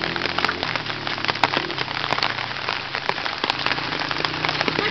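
Heavy rain falling, a steady hiss with many sharp drop ticks close to the microphone. Under it, the low drone of a distant dirt bike engine, its pitch slowly rising and falling as the rider works the throttle through the wet.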